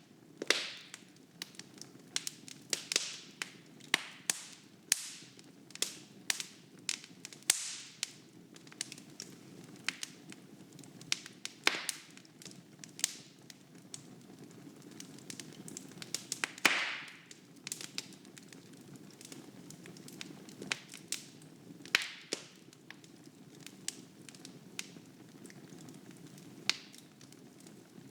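Wood fire burning in a fireplace: irregular sharp crackles and pops from the burning logs, several a second at times, over a faint low hiss.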